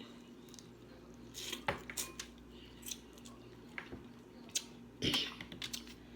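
Close-up eating sounds from seafood eaten by hand: scattered small clicks and cracks, wet squishes and chewing, with two slightly louder bursts, about one and a half seconds in and near the end.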